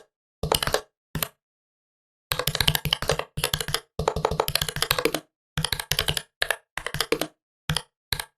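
Typing on a Huawei MateBook 13 laptop keyboard, with rapid key clicks in uneven bursts and short pauses between them. The longest run of typing comes in the middle, from about two to five seconds in.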